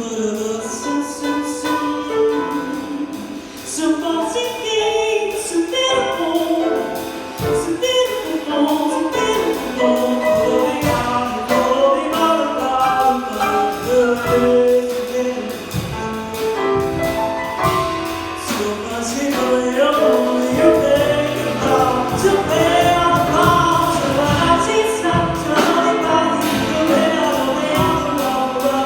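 Music: a woman singing a melodic line over instrumental accompaniment.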